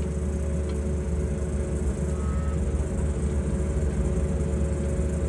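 Excavator diesel engine running steadily under load while its hydraulic auger bores a pier hole, a constant low drone with a few steady higher tones over it.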